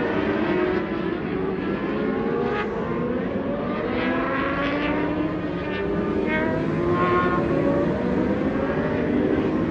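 Several 1000cc superbike engines running at racing speed, their pitches rising through the revs and dropping back at gear changes, more than one bike heard at once.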